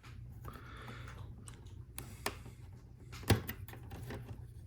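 Plastic LEGO Technic pieces being handled and fitted together: scattered light clicks, the loudest a little past three seconds in.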